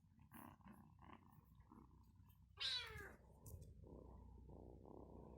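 Agitated domestic cat growling low, with one loud yowl falling in pitch about two and a half seconds in.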